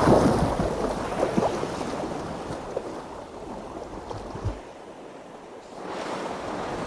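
Ocean water churning and splashing at the surface, loudest at first, dying down midway and swelling again near the end.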